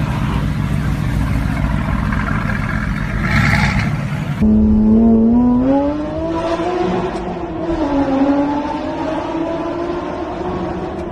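Sports car engine and exhaust: a loud rumble for the first few seconds, then, after a sudden cut, an engine accelerating with its pitch rising for about two seconds before levelling off and wavering.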